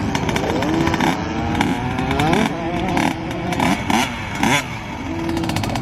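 Dirt bike engines revving up and easing off again and again, with several rising and falling sweeps in pitch and some clatter.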